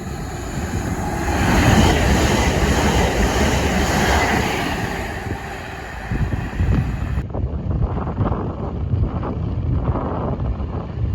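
A train passing at speed: a broad rushing noise that swells about a second in and eases off by about six seconds. About seven seconds in the sound changes suddenly to a low, uneven rumble with wind buffeting the microphone.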